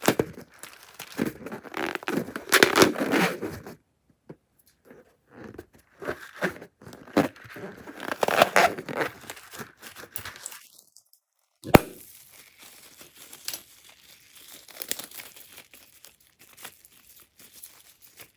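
Crunchy slime being squished and worked by hand, giving irregular crinkling, crackling and tearing noises. About two-thirds of the way in there is a brief total silence, then one sharp click, followed by quieter crackling.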